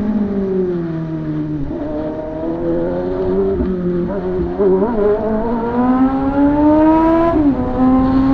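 Motorcycle engine running as the bike is ridden. The revs fall away to a low steady note, waver, then climb steadily as it accelerates. A sudden dip near the end is an upshift, after which it runs at a steady middle pitch.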